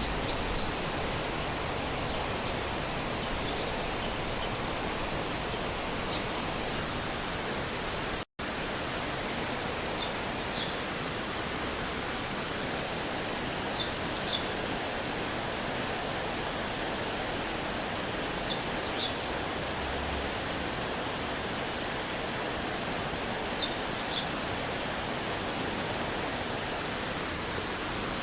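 Stream water rushing steadily. A bird gives short, high, falling chirps in twos and threes every few seconds. The sound cuts out for a split second about eight seconds in.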